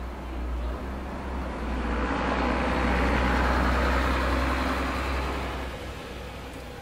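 A road vehicle passes by, its noise swelling to a peak about three seconds in and then fading away, over a steady low rumble.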